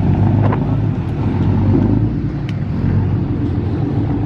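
Pickup truck engine idling with a steady, deep rumble, and a couple of faint clicks over it.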